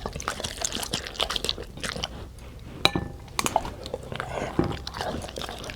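A dog chewing and crunching a snack: irregular crisp crunches and clicks, with one sharp click about three seconds in.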